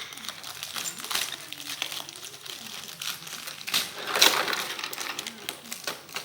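Plastic packaging and tape crinkling and rustling as a toy train set is unpacked and handled, with the loudest crinkling about four seconds in.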